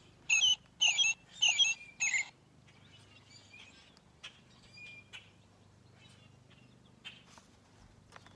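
American robin song: four short warbled phrases in quick succession, then only faint scattered chirps.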